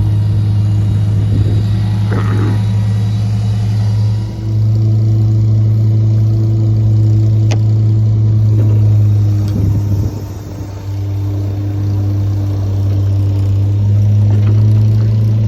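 Ford bucket truck's engine running at a raised idle with the PTO engaged, a steady low drone with a few brief dips in level.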